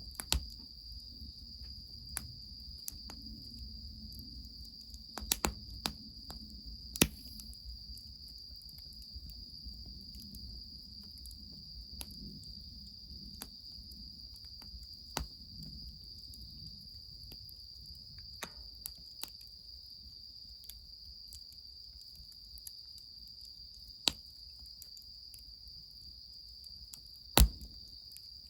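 Wood fire crackling with scattered sharp pops, loudest in a quick pair near the end, over a steady high chirring of crickets and a faint low rumble.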